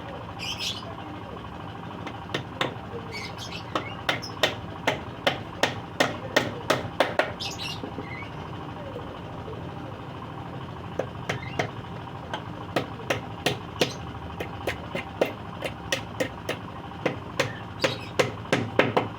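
A hammer striking wood in two runs of quick, even blows, about two to three a second, as scrap-wood boards are nailed together for a nest box. Small birds chirp now and then.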